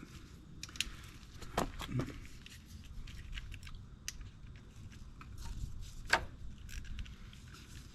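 Scattered light clicks and knocks of tools and small metal parts being handled while the oil filter cover bolts are taken off a Honda CRF250F engine. There are a few sharper taps about a second and a half, two seconds and six seconds in.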